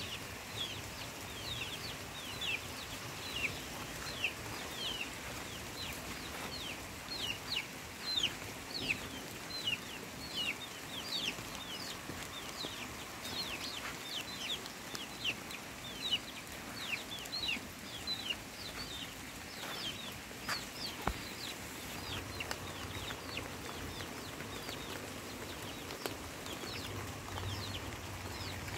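Birds chirping: many short, high, falling chirps, two or three a second.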